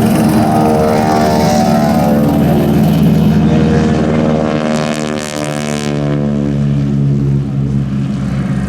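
Piston-engined propeller airplane flying past, its engine drone sliding steadily down in pitch as it goes by.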